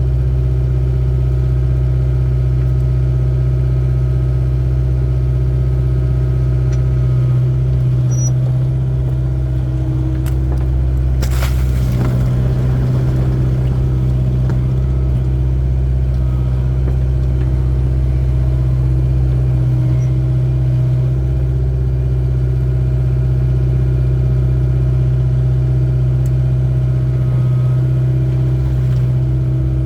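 Excavator's diesel engine running steadily under load with a deep, constant hum, during foundation digging. A short scraping or rushing burst comes about eleven seconds in.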